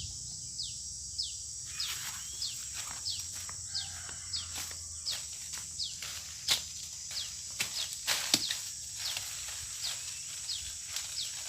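Rural outdoor ambience: a steady high insect drone with a short falling bird chirp repeated about twice a second. Scattered sharp clicks and rustles, the loudest about six and a half and eight seconds in.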